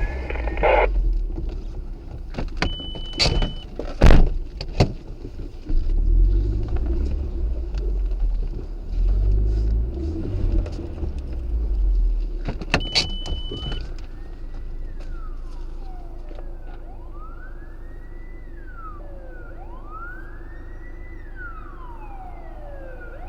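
Vehicle engine and road rumble with a few sharp knocks, then, from about two-thirds of the way in, a police car siren wailing, rising and falling about every three seconds.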